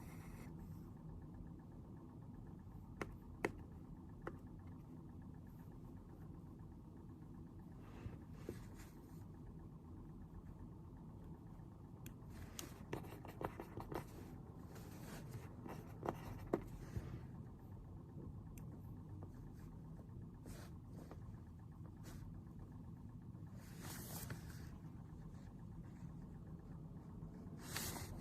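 Faint sounds of someone studying at a desk: scattered light taps and clicks and bits of pen scratching, busiest in the middle. These sit over a steady low background hum.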